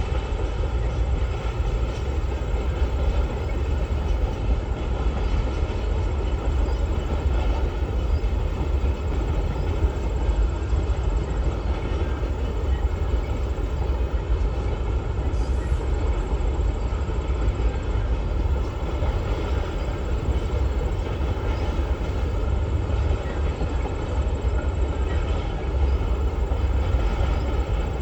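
A long train's cars rolling past steadily, a continuous low rumble with no break, the train still far from its end.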